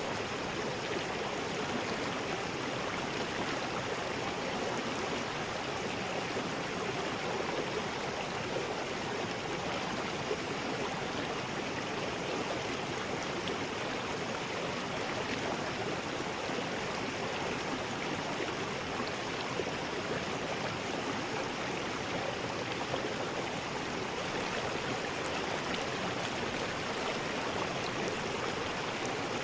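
River rapids: water rushing steadily over rocks.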